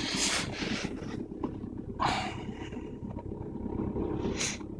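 Audi A3 8L engine idling steadily just after a −19°C cold start, held at a slightly raised cold idle. Two short rushes of hiss come over it, at the start and about two seconds in.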